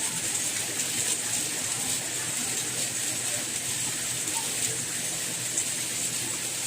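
Steady rainfall, an even hiss of rain with no pauses.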